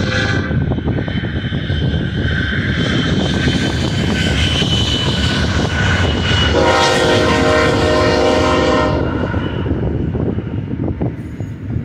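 BNSF intermodal freight train led by GE ES44C4 diesel-electric locomotives running past with a heavy, steady rumble. A multi-note train horn sounds for about two and a half seconds a little past the middle, and the tail of another horn blast fades just after the start.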